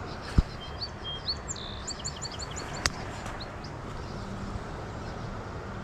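A songbird singing a quick run of short, high chirping notes over a steady background rush; a sharp click about three seconds in.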